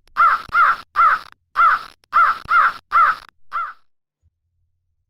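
Crow cawing: a quick run of about eight caws, the last one fainter, stopping about four seconds in.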